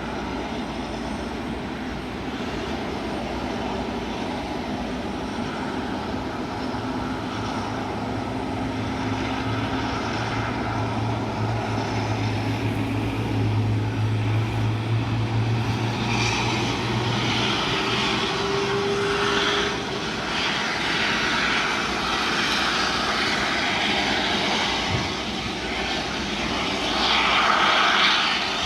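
Airbus A330 airliner's jet engines running, a steady noisy hum. A low drone swells in the middle and fades out about eighteen seconds in.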